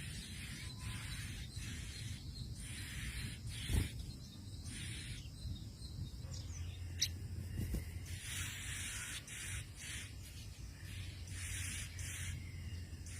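Short, hissy bird calls repeated about once a second, with a few sharp clicks over a steady low hum.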